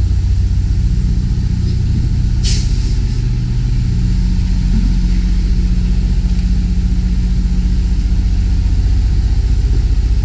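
Semi tractor's diesel engine running steadily at low revs while the rig backs. About two and a half seconds in there is one brief hiss of air from the truck's air brake system.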